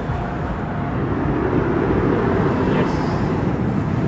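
Low, steady rumble of a jet airliner approaching to land, growing slowly louder.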